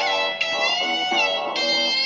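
Electric guitar in a live loop: a high sustained lead note bends up in pitch at the start and again near the end, over a repeating plucked guitar pattern.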